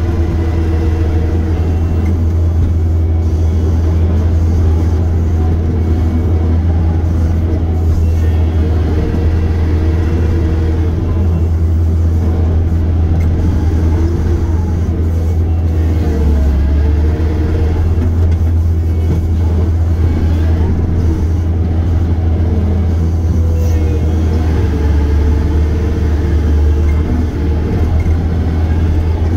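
Heavy-equipment diesel engine running steadily, a loud, deep drone that holds nearly constant speed, with only slight wavers in pitch.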